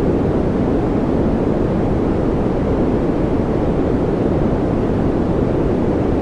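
Steady masking noise played as "white noise": an even, unchanging rushing hiss, deep rather than bright, with most of its weight in the low end.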